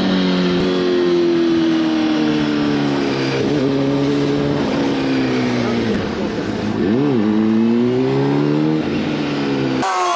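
Motorcycle engine running at speed, its pitch sagging slowly, then dipping and rising again sharply about seven seconds in as the throttle is closed and reopened. Near the end it cuts to an engine revving up with a steadily rising pitch.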